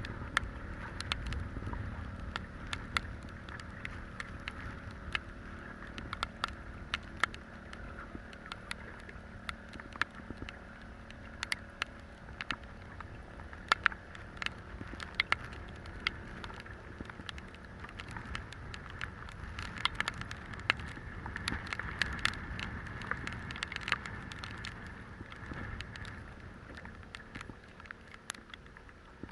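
Spinning reel being cranked as a spoon lure is retrieved after a cast, a steady whir with many irregular sharp ticks, over a low rumble of wind on the microphone.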